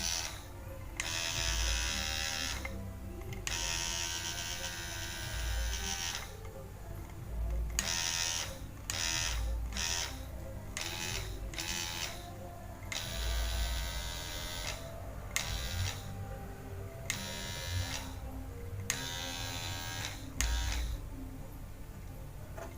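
Small electric motor of a homemade grinder-drill machine running in repeated bursts with short gaps between them. Some bursts last two or three seconds, and a quick run of brief ones comes near the middle.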